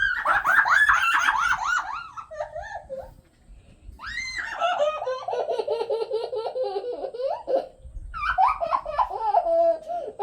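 A young girl laughing hard in three long bouts of rapid, high-pitched laughter, with short breaks between them.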